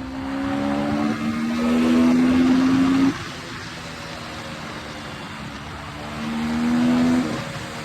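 Dirt bike engine pulling hard with its pitch rising, then the throttle is chopped about three seconds in and it runs quieter off the throttle, before accelerating again near the end and backing off once more.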